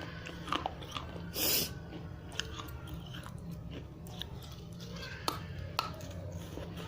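Dry red clay diya pieces being chewed and crunched in the mouth, close to the microphone: scattered crisp crunches, with one louder gritty crunch about one and a half seconds in. A steady low hum runs underneath.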